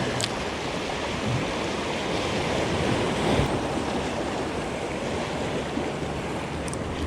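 Sea swell surging and washing over rocks, a steady rush of surf with a slightly stronger surge about two to three seconds in, and some wind on the microphone.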